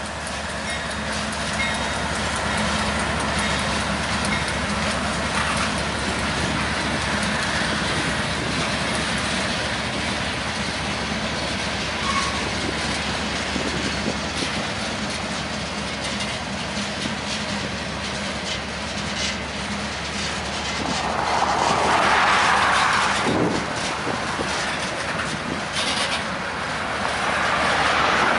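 Freight train of covered hopper cars rolling past behind BNSF diesel locomotives, with the wheels clicking over the rail joints under a steady engine rumble. The noise swells louder briefly about three quarters of the way through and again near the end.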